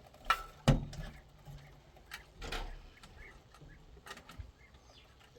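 Two sharp knocks in the first second, then scattered lighter clicks and a brief rustle, like objects being handled.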